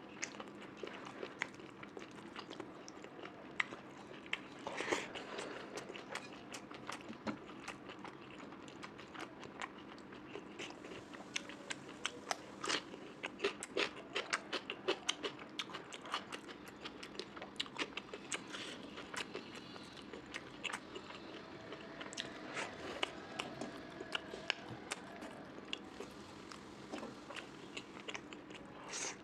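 Close-miked chewing of a mouthful of rice, curry and meat, with frequent wet mouth clicks and occasional crunches, in an uneven rhythm.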